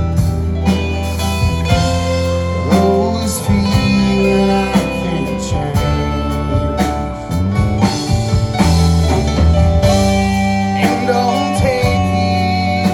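Rock band playing a slow song, with guitars over a steady bass line and long held chords.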